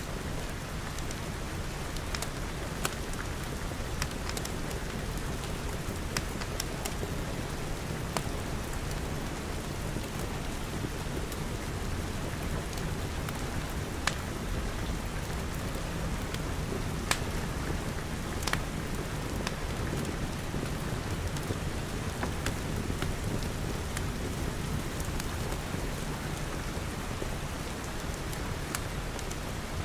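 Steady rain pattering on glass, over a low rumble, with scattered sharp crackles from a wood fire.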